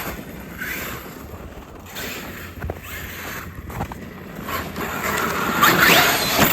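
Traxxas electric RC monster truck driven hard: its brushless motor whines and its tyres scrabble over the ground, with a couple of small knocks midway. Near the end it gets louder with a rising motor whine.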